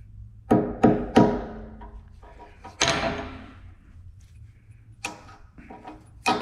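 Hammer tapping a 1/8 inch steel roll pin into its hole, about six sharp metallic strikes at uneven spacing, each ringing briefly, as the pin is started into the knob.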